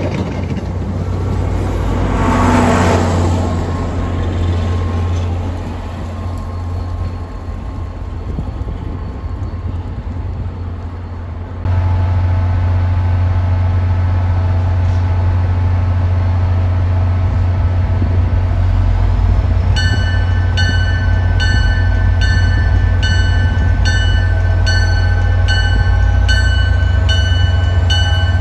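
A commuter train of bilevel coaches rolling past, followed by a diesel locomotive approaching with its engine running in a loud, steady low hum. From about two-thirds of the way in, a bell rings steadily, about one strike every three-quarters of a second.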